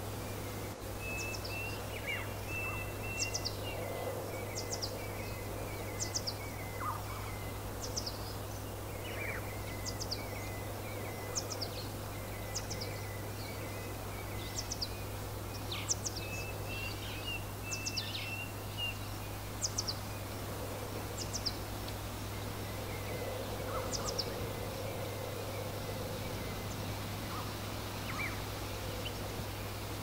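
Songbirds singing: short, high, falling chirps repeated every second or two, with a second bird's rapid twittering phrases lower in pitch, over steady wind noise.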